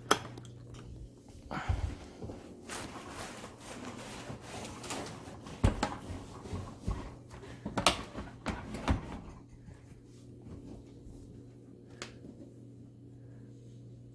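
Scattered knocks and clunks of a dishwasher being handled and pushed back into place, over a steady low hum. The clatter falls off about two-thirds of the way through.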